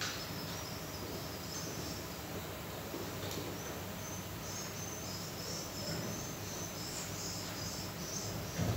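Short, high-pitched chirps repeating throughout over a steady low hum.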